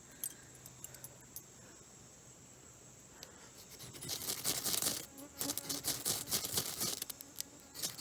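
A few faint clicks, then from about halfway a stretch of rough, scratchy crackling and rustling in irregular bursts: dry tinder being worked over a smouldering ember to catch a fire.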